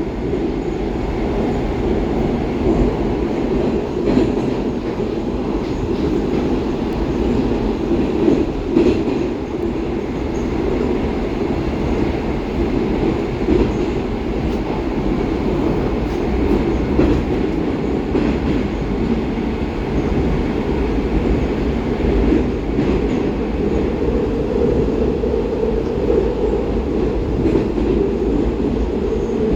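Baltiets metro train running between stations, heard from inside the carriage: a steady rumble of wheels and running gear with a few faint clicks.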